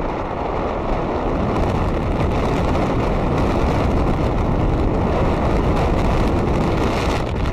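Steady wind rush on the microphone of a moving motorbike, mixed with the bike's engine and road noise.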